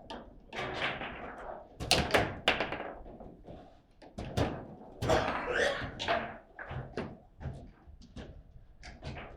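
Table football match play: the ball and the rod-mounted figures knocking against each other and the table in a quick, irregular series of sharp thunks and taps, loudest about two seconds in and again about five seconds in.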